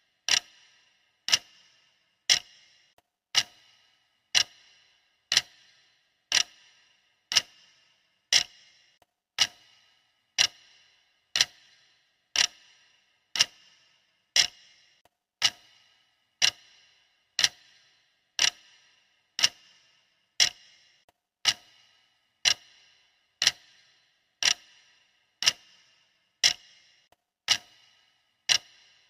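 Clock ticking steadily at one tick per second, each tick a sharp click with a short ring.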